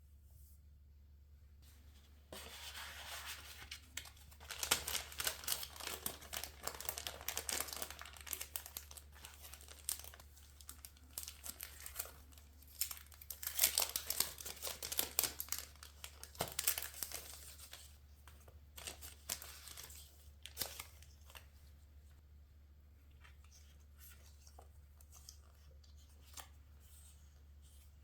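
Paper being handled by hand, torn and crinkled. A dense run of rustling and crackling starts about two seconds in and dies away after about twenty seconds, leaving a few light touches.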